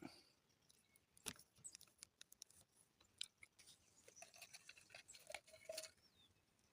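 Near silence broken by faint, scattered clicks and light handling noises: a clear click about a second in, and a cluster of small clicks and taps between about four and six seconds in.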